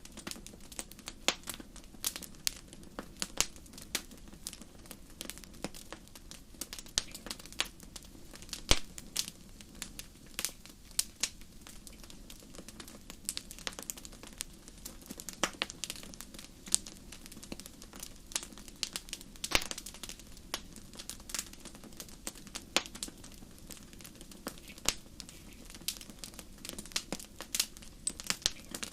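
Wood fire burning, with many sharp irregular crackles and pops, some louder ones standing out, over a steady low rushing of the flames.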